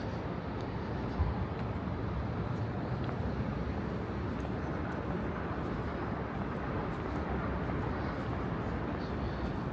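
Steady outdoor city ambience, mostly a low rumble, with one brief knock about a second in.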